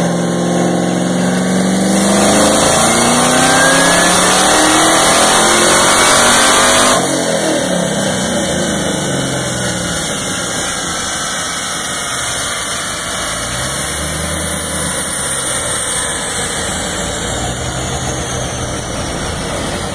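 2014 Chevrolet Camaro ZL1's supercharged 6.2-litre LSA V8, with a BTR Stage 3 cam and factory exhaust manifolds, at wide-open throttle on a chassis dyno: the revs climb steadily, with a whine rising alongside. About seven seconds in the throttle snaps shut and the level drops at once. After that the engine falls back and settles while a high whine slowly falls as the rollers wind down.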